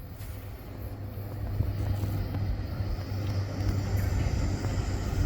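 Train running at the station: a steady low hum that swells over the first couple of seconds and then holds.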